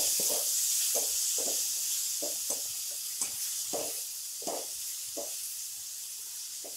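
Chopped tomatoes and green chillies sizzling in hot oil in a metal kadai while a spoon stirs them, scraping and knocking against the pan about every half second to second. They are being fried until soft for a gravy base, and the sizzle slowly gets quieter.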